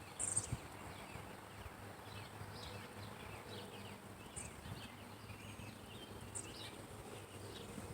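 Faint outdoor ambience with scattered short high chirps from small wildlife such as birds and insects, and a brief low knock about half a second in.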